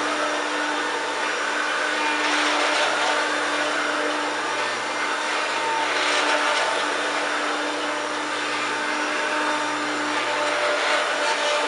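1993 Hoover Turbopower 1 U2798 upright vacuum cleaner running steadily. Its motor hum holds one pitch while the airflow hiss swells and fades a few times. It sounds a bit creaky and knackered, though the owner says it still picks up well.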